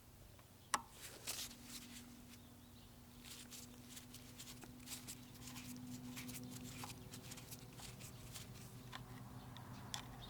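Scattered small clicks and taps of hand work with tools and small parts, one sharper click about a second in, over a steady low hum.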